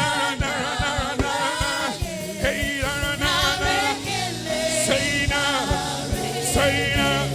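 Gospel praise song sung by several voices over a band with a regular drum beat.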